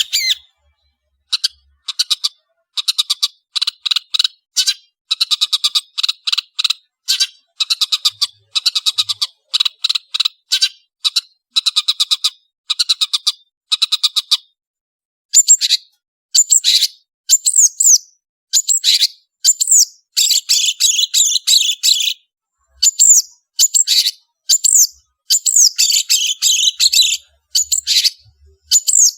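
Long-tailed shrike (cendet) singing in short phrases with silent gaps between them: rapid runs of short repeated notes, then, after a brief break about halfway, livelier phrases of quick rising and falling notes.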